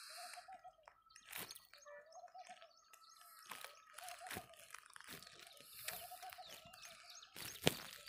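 A bird calling over and over, a short wavering call about every two seconds, with faint scattered clicks and rustling.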